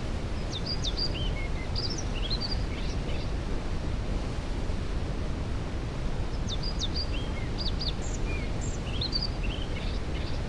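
Waterfall's steady rush, deepest in the low range, with a songbird singing the same quick phrase of chirps and trills twice, about three seconds each, starting about half a second in and again about six seconds in.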